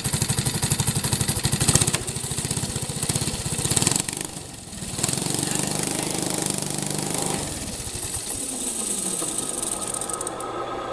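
Small engine of a supermileage car running with its servo-operated plate clutch engaged, driving the wheel, in a steady rapid beat. The sound dips and changes about four to five seconds in, then carries on more smoothly.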